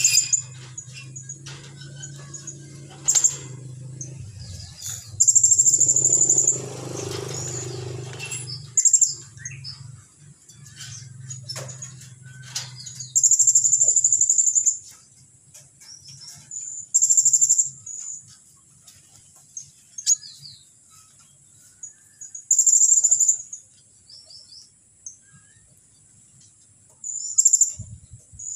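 White-rumped shama (murai batu) singing its rapid trotol song: high, fast trills lasting about a second each, repeated every few seconds, with short high chirps between. A low hum lies under the first dozen seconds.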